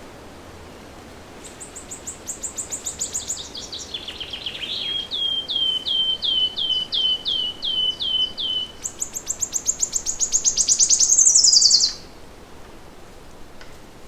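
A songbird singing one long, varied song: a fast high trill that drops in pitch, then a run of about a dozen repeated hooked notes, then a rapid high trill that grows louder and cuts off abruptly. A steady faint background hiss runs underneath.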